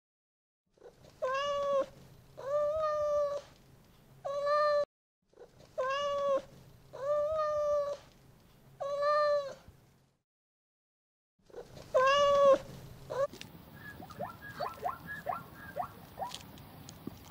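An animal calling: seven drawn-out pitched calls that rise and fall a little, in two sets of three and then one more after a pause. A quick run of short chirps or clicks follows near the end.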